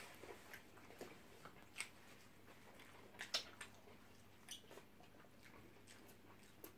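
Faint chewing of soft shawarma wraps: scattered soft mouth clicks and squishes, the loudest a little past the halfway point.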